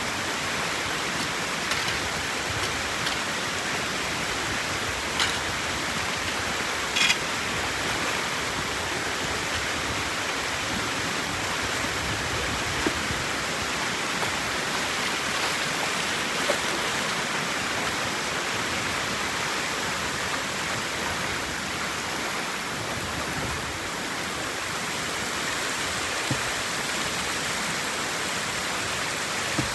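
Steady rush of flowing water, with a few brief knocks scattered through.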